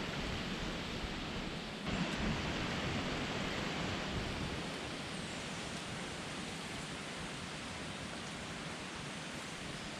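A steady, even hiss with no pitch, a little louder from about two seconds in and easing slightly after about five seconds.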